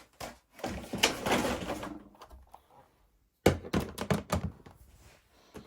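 Handling noise: a scraping rustle about a second in, then a quick run of knocks and clicks.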